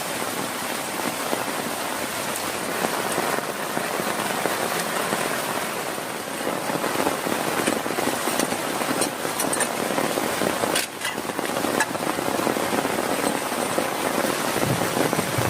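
Heavy rain falling steadily as a dense, even hiss, with a few sharper drop hits about halfway through.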